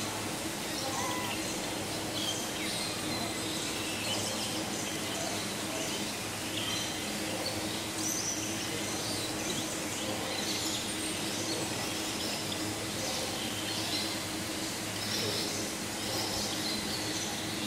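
Many short, high bird chirps scattered throughout, over a steady background of hiss and a low steady hum.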